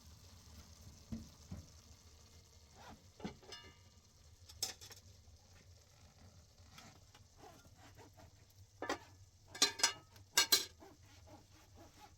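Food frying in a pan while a utensil stirs and scrapes against it, with scattered clinks and a few louder scrapes near the end.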